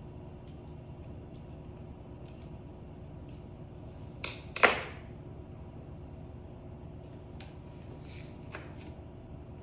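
Two quick, sharp metallic clinks about four and a half seconds in, like metal knocked against metal, with faint small taps of handling over a steady low hum.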